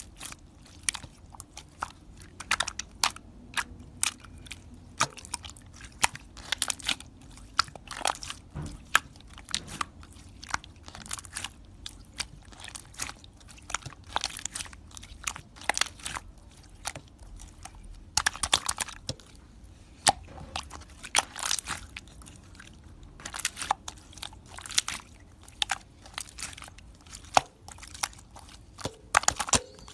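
Crunchy chewing: a steady run of sharp, irregular crunches, several a second, in clusters with short gaps.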